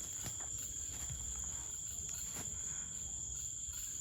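Crickets chirping in a steady, continuous high-pitched night chorus, with a few faint clicks.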